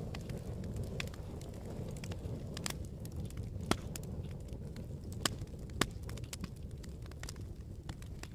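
Wood fire crackling in a fireplace: a steady low rumble with sharp pops now and then, the loudest a little under four seconds in.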